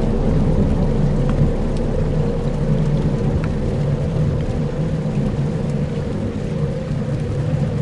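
Dark ambient soundscape: a steady low rumble with faint held tones over it, a few faint ticks, and a rain-and-thunder-like wash.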